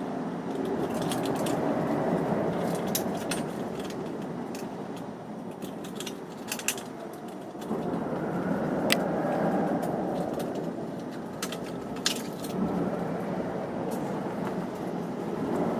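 Scattered sharp metallic clicks and clinks of hand tools on car parts, irregularly spaced, over a steady background hiss.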